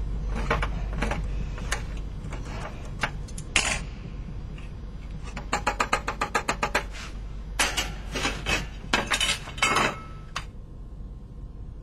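Hard objects clattering and clinking, like dishes and cutlery being handled, in scattered knocks with a rapid run of about ten a little past the middle. A low steady hum runs under it.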